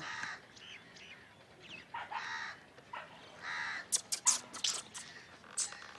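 Birds calling in the background: a few short calls, spaced a second or more apart, with a cluster of sharp clicks about four seconds in.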